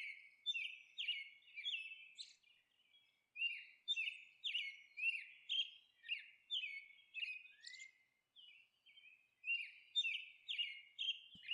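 Birds chirping faintly: runs of short, high chirps that slide downward, with pauses between the runs.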